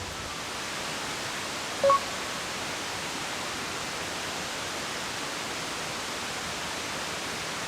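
A steady, even hiss, with one short, loud, high-pitched blip about two seconds in.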